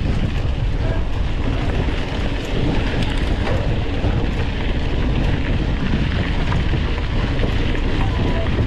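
Steady loud rush of wind buffeting an onboard camera's microphone on a moving mountain bike, with the rumble of riding underneath.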